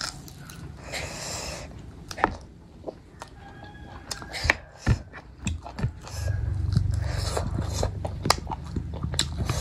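Close-miked chewing and biting while eating cooked goat head meat, with sharp wet mouth clicks and short smacks. A low rumble joins in about six seconds in.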